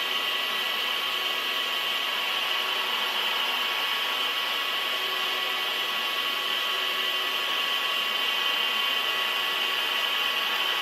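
Large metalworking lathe running: a steady whirring hiss with thin, constant high whining tones.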